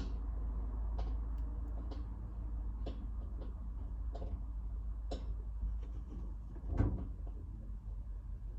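Light knocks and clicks of objects being handled, roughly one a second, then a heavier thump about seven seconds in, over a steady low hum.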